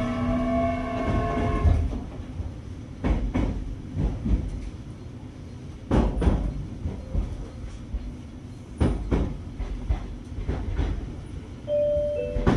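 JR Kyushu 817 series electric train with a Hitachi IGBT VVVF inverter, whose motor sound differs from other 817s. The inverter whines in several steady and slightly rising tones while the train accelerates, then cuts off about two seconds in. After that, wheels knock over rail joints in pairs beneath a running rumble.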